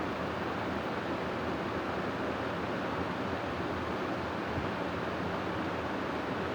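Steady rushing wind, an even unbroken noise with no gusts or breaks.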